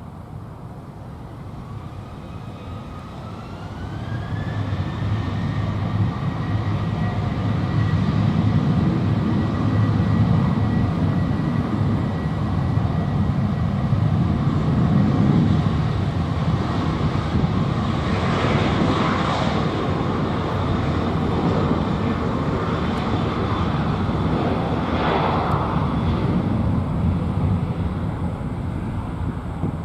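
Boeing 737-800's CFM56-7B turbofan engines spooling up for takeoff. A whine rises in pitch over the first few seconds, then the engines settle into a loud, steady roar with a high fan tone held above it, easing a little near the end.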